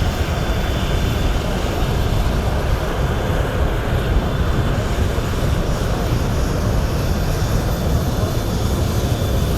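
Steady roar of Su-30SM jet fighter engines, even in level with no sudden changes.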